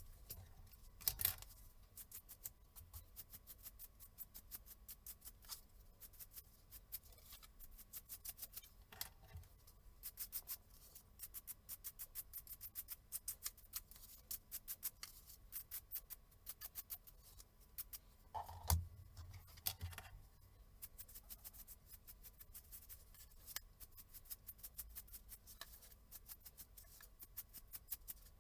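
Rapid, uneven run of small sharp clicks, several a second, with a couple of louder knocks about a second in and near nineteen seconds in.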